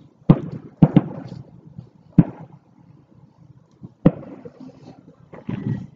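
Fireworks going off: about six separate sharp bangs at uneven intervals, each with a short echoing tail, the last two close together near the end.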